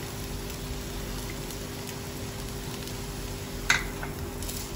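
Semolina and bottle-gourd halwa sizzling softly in ghee in a pan, with one sharp clink of the steel spatula against the pan about three and a half seconds in.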